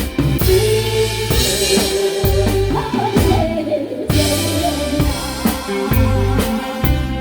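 Live band playing a song: a drum kit keeps a steady beat with bass drum and snare under sustained pitched instruments and a singing voice.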